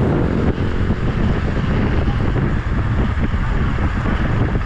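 Wind buffeting the microphone of a minibike ridden at speed, with its small engine running underneath; the engine's pitch fades into the wind noise about a second in.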